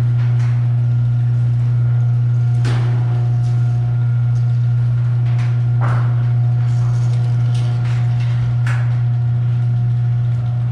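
Electric garage door opener motor running with a steady low hum, with three knocks from the door along the way; the hum starts and stops abruptly.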